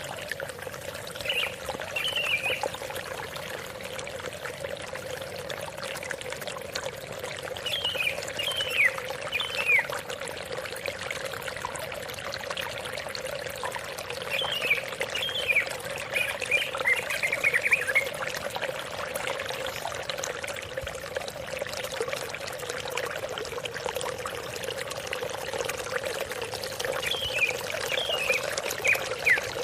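Flowing water running steadily, over which a cucak ijo (green leafbird) gives four bursts of quick, high, falling whistled notes.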